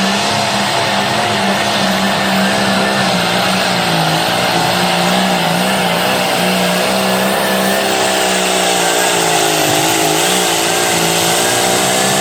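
Turbocharged John Deere pulling tractor's engine running flat out under full load as it drags the weight-transfer sled down the track. Its note stays high and steady, wavering slightly in pitch as the load bites.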